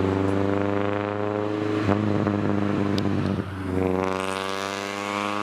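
1977 Toyota Celica's carbureted engine pulling under acceleration through its tall takeyari exhaust pipes, the note climbing steadily. About three and a half seconds in it dips briefly, as at a gear change, then climbs again.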